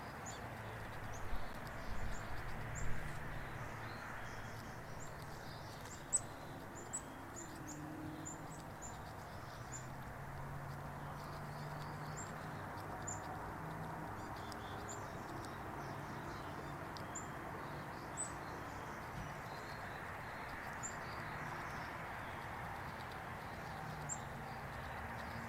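Small birds chirping: short, high chirps scattered irregularly over steady outdoor background noise, with a few sharp clicks in the first several seconds.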